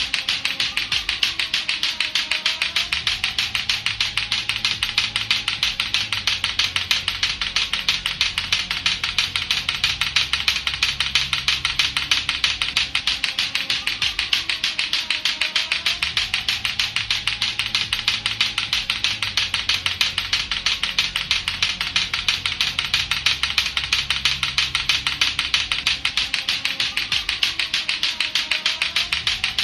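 Lato-lato clackers, two hard plastic balls on a string, knocking together in a rapid, unbroken stream of sharp clacks, over a looping background music track.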